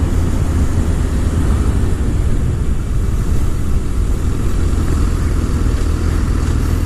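Motorcycle riding at a steady speed: a steady, low engine and road rumble with no change in pace.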